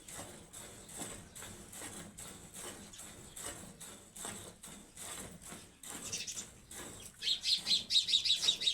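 Cow being milked by hand, milk squirting into a bucket in short hissing streaks about twice a second. Near the end a small bird chirps rapidly and loudly.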